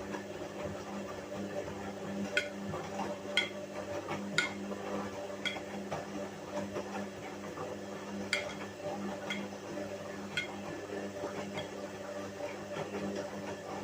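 Whirlpool washing machine running a wash cycle: a steady motor hum, with sharp clinks about once a second in two short runs as something hard knocks against the turning drum.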